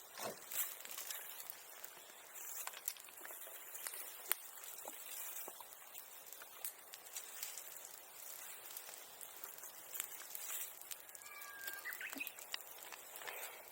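Bonfire crackling with irregular sharp pops over a steady high hiss; a bird chirps briefly near the end.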